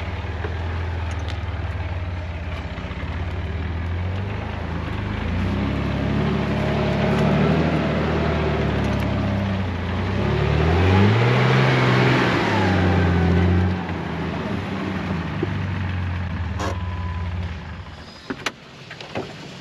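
Honda CR-V's engine working hard off-road, revving up and down. The revs climb to a peak about twelve seconds in, drop suddenly, and then the engine settles much quieter near the end.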